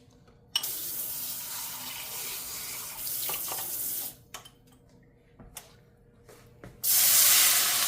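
Kitchen tap running into a sink for about three and a half seconds, then shut off, with a few small clicks. Near the end, water hits the hot, slightly burnt pan and sizzles loudly, fading away.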